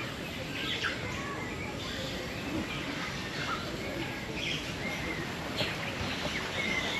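Birds chirping and calling in short, scattered calls over steady background noise.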